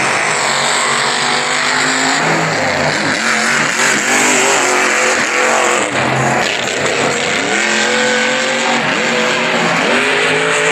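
Monster truck engines racing at full throttle, their pitch climbing and dropping again and again as the drivers work the throttle, over a steady loud wash of engine noise.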